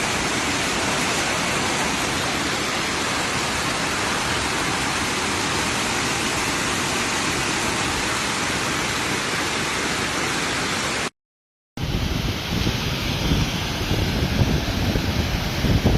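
Heavy hailstorm: a dense, steady hiss of hail and rain pelting down. About eleven seconds in it cuts out for under a second, then returns with wind buffeting the microphone.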